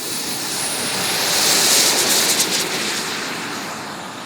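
Tomahawk Futura 3D RC jet's turbine engine making a flypast: a jet hiss builds to a peak about two seconds in, then fades away.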